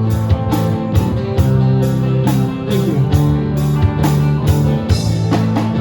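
Live band playing an instrumental passage between sung verses: guitar over bass and a drum kit keeping a steady beat.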